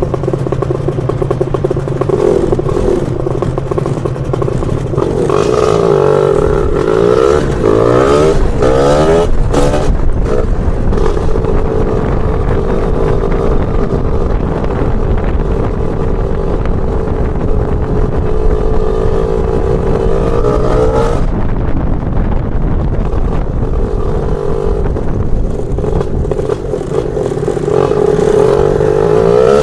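Lambretta scooter's BFA 325 two-stroke engine under way. It climbs in pitch several times in quick succession as it accelerates through the gears, holds a steady note while cruising, drops off a little past two-thirds of the way in, and picks up again near the end.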